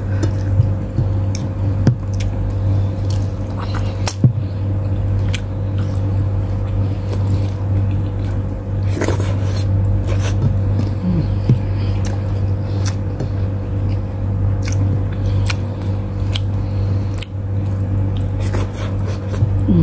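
Close-up eating sounds: wet chewing, squishing and scattered sharp mouth clicks and smacks as a person eats adobo chicken wings and rice by hand. A steady low hum runs underneath throughout and is the loudest thing.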